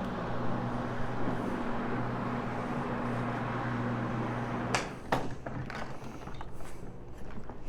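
Carpet-cleaning floor machine driving a cleaning pad, its motor running with a steady hum, then switched off about two-thirds of the way in, followed by a few sharp knocks and clicks as the machine is handled.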